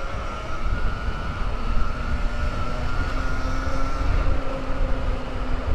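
Electric dirt bike motor whining steadily while riding, with wind rumbling on the microphone.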